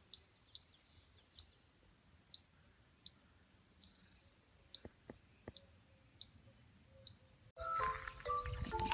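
A small songbird, the adult near the nest, giving short, sharp, high chip notes over and over, about one every half second to a second. Background music comes in near the end.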